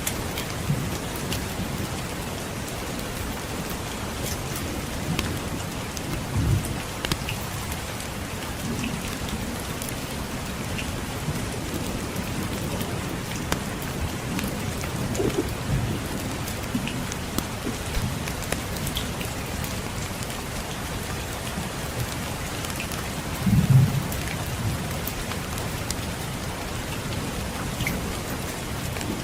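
Steady rain falling, with scattered small crackles and low rumbles of distant thunder: a short one about a quarter of the way in and a louder one about two-thirds through.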